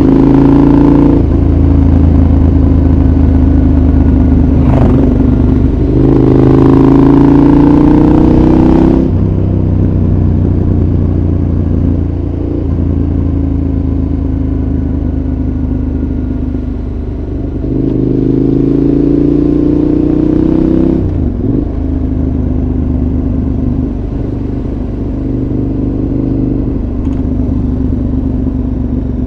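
KTM 1190 Adventure's V-twin running through a Giannelli exhaust with its dB killer fitted, heard from onboard the moving motorcycle. The bike accelerates hard twice, about six seconds in and again near two-thirds through, the engine note rising for a few seconds and then dropping off sharply. Wind rush swells with each pull.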